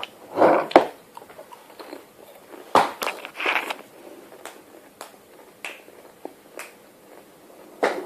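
Mouthful of small fried Saladix snack crackers being bitten and chewed: irregular crisp crunches, with a run of louder crunches about three seconds in and sparser ones after.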